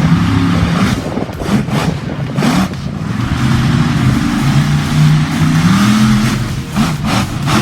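Monster truck engine running and being revved in short surges, its pitch rising and falling.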